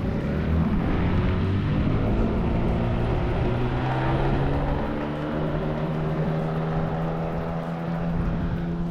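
Outboard motor of a boat running under way, its pitch shifting a little over the first few seconds and then holding steady.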